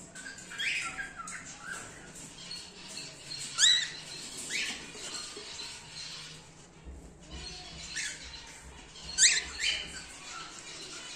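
Cockatiels calling in an aviary: short, sharp calls that sweep upward in pitch, about half a dozen, the loudest about a third of the way in and again near the end.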